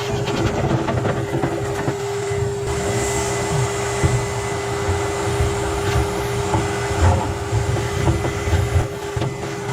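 Vacuum cleaner running with a steady hum, drawing lint out of the dryer's lint trap housing through a slender attachment.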